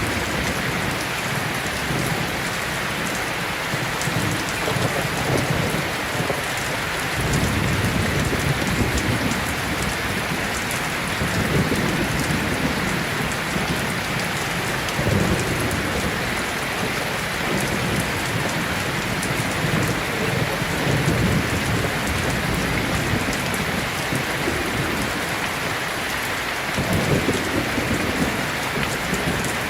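Heavy rain with a steady dense hiss, and rolls of thunder swelling and fading several times, the strongest about 7 to 10 seconds in and again near the end.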